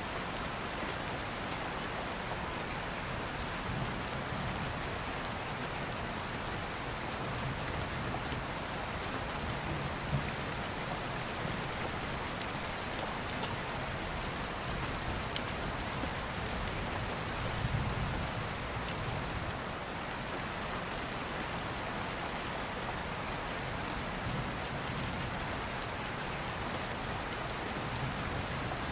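Steady rain with low rumbles of thunder that swell and fade several times, the strongest about 17 seconds in, and a few sharp pops from a crackling open fire.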